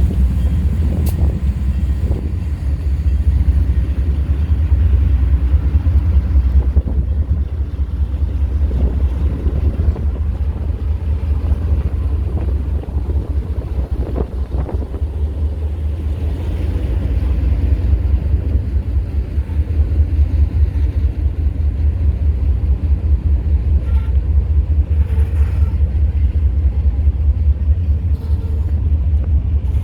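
Diesel freight locomotive running, a steady low rumble with a fast pulsing engine beat.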